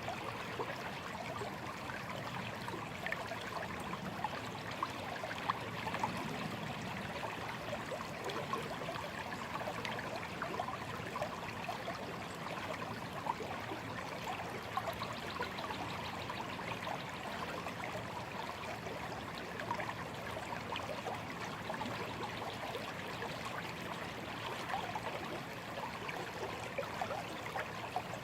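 A shallow stream running and trickling over stones, a steady babble of water with small splashes throughout.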